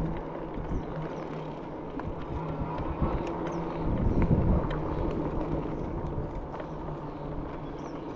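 Pickup truck engine running steadily with tyre and road rumble as it drives slowly. There is a louder low swell about four seconds in.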